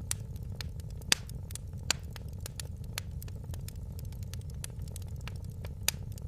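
Wood fire crackling in a fireplace: scattered sharp pops and snaps over a steady low rumble. The loudest pops come about a second in, just before two seconds, and near the end.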